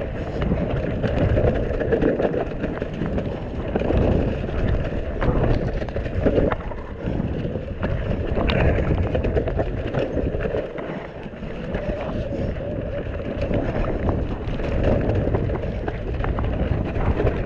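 Mountain bike riding down a wet, muddy trail: tyres running through mud and slop, with frequent sharp clicks and rattles from the bike over rough ground, and wind buffeting the microphone.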